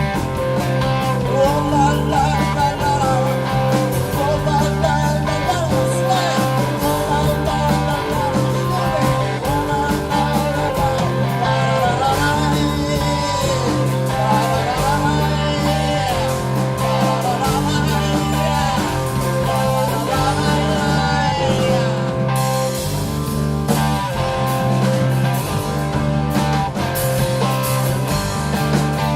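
Live rock band playing, with electric guitar over bass and drums.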